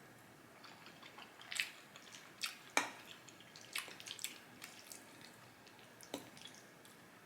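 Wet mouth sounds of eating, picked up close: chewing, lip smacks and tongue clicks in irregular sharp snaps, the loudest cluster about two to three seconds in.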